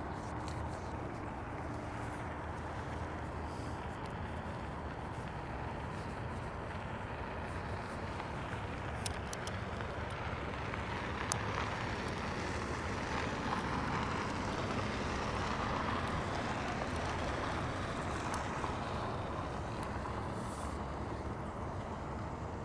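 Steady road traffic noise, with a vehicle passing that swells about halfway through and then fades.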